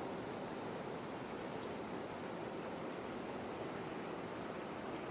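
Waterfall rushing: a steady, even rush of falling water with no breaks.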